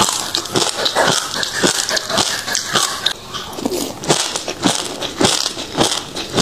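Passion fruit seeds crunching as they are chewed, a quick run of sharp little crunches.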